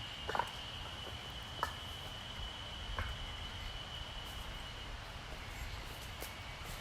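An insect's steady, high, single-pitched drone in the woods, fading after about five seconds, with a few light cracks or snaps from twigs or footsteps near the start and in the first three seconds.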